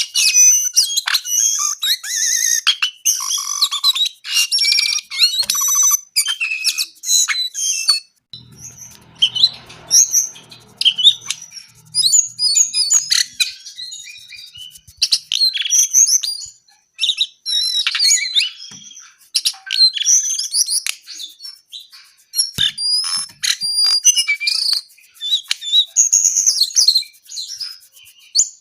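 A brown-throated sunbird (jongkangan) singing vigorously: fast, high-pitched chirps and twittering trills in dense bursts with short pauses between them.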